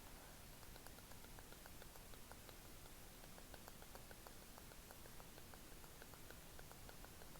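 Faint, quick clicks or light taps, several a second and irregular, made close to a microphone over a steady hiss.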